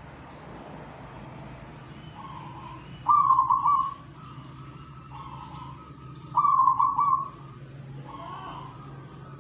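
A bird repeating a call of about a second each, two loud ones a few seconds apart with softer ones between, over a steady low hum.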